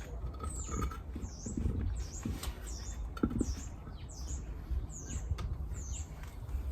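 A small bird repeating a high, thin call, about two calls a second, each note dipping and rising in pitch.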